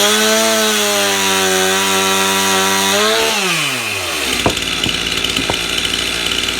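Stihl MS 291 two-stroke chainsaw revved up to full throttle and held there for about three seconds, then dropping back to a steady idle, with a couple of light knocks after it settles.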